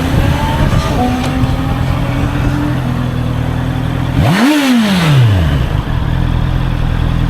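Honda CBR650R inline-four engine running under way, its pitch climbing slowly in gear. About four seconds in it revs sharply up and falls back within about a second.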